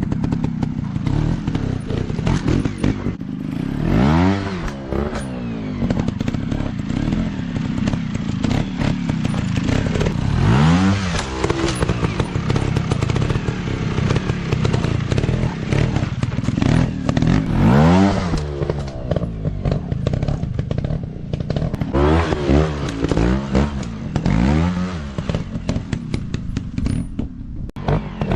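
Dirt bike engines running, revving up and dropping back several times, with a mechanical clatter under the steady drone.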